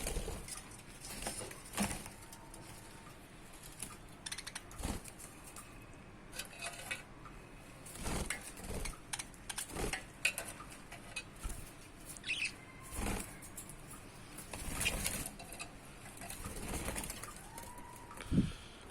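Pet budgerigars fluttering their wings in short, irregular bursts, with a few brief chirps.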